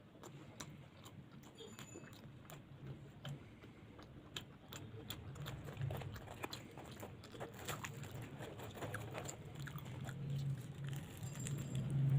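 Close-up eating sounds of luchi and alur dam being chewed: many small wet clicks and smacks of chewing, growing louder in the second half.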